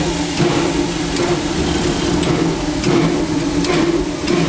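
Steady hum and hiss in the cab of a Disneyland Railroad steam locomotive, broken by several sharp knocks about a second apart.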